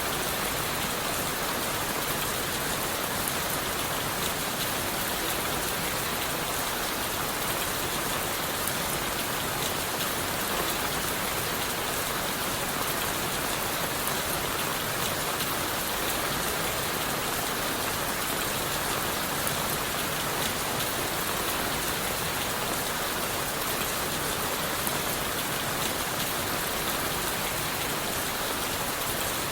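Steady rain falling on leaves and wood, a dense, even patter of drops with no let-up.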